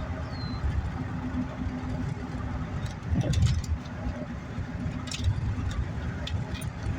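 An engine idling: a steady low rumble with a faint constant hum, swelling briefly about three seconds in, with a few light clicks.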